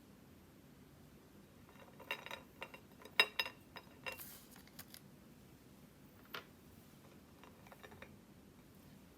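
Light clicks and a brief crinkle of small objects being handled, bunched together about two to five seconds in, with a few scattered clicks afterwards.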